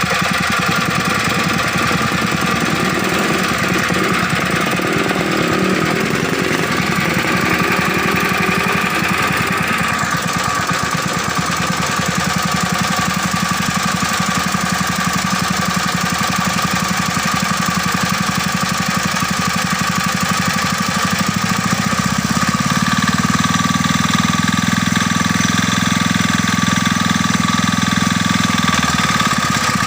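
Restored old diesel engine running steadily with a fast, even knocking beat. From about two-thirds of the way through, its low note grows fuller for several seconds.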